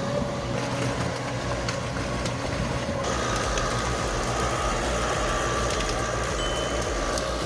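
Heavy forestry machine's diesel engine running steadily. About three seconds in, a higher steady whine joins it.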